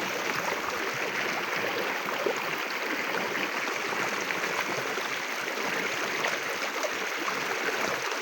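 Steady rushing and babbling of a river in spate, swollen with rainwater.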